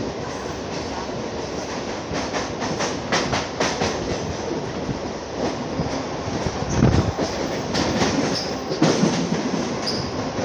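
Mumbai suburban local electric train running at speed, heard from its open doorway: wheels clattering over the rail joints in quick clicks, with a heavier rumble about seven seconds in and two brief high wheel squeals near the end.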